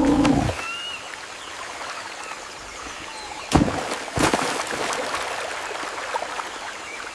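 Outdoor nature ambience: a steady stream-like hiss of running water with a few short bird chirps. A brief low animal sound opens it, and two sharp crackles come about three and a half and four seconds in.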